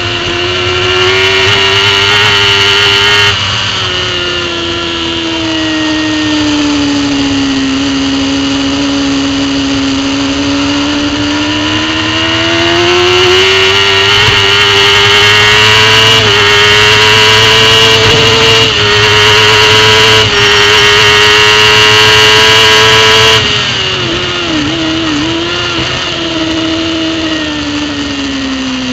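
Racing superbike engine at high revs heard from the on-board camera, its pitch dropping suddenly about three seconds in, sagging and then climbing slowly through a long stretch, and dropping sharply about two-thirds of the way in with a few quick wobbles in pitch before falling again near the end.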